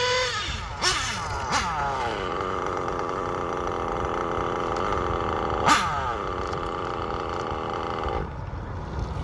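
Small nitro RC engine, worn with a cracked head and low compression, revving: a couple of quick rev blips, then held at high revs with a steady high-pitched whine for about six seconds before the throttle drops about a second before the end. One sharp crack cuts through midway.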